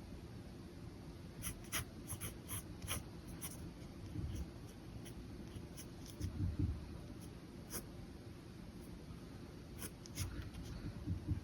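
Pen nib scratching across paper in short, scattered strokes. Soft low thuds from the hand and paper shifting come between them, loudest a little past the middle and near the end.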